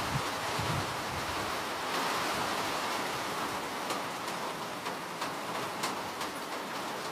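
Steady rain, an even hiss with faint scattered drop ticks, and a low rumble in the first second.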